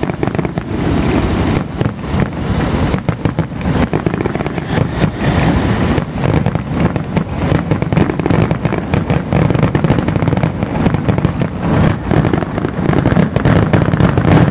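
Large fireworks display: a dense, continuous barrage of rapid bangs and crackling as many shells burst at once.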